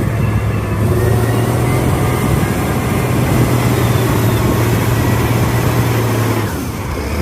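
Wheel loader engine running with a steady low hum and rumble, which drops away near the end.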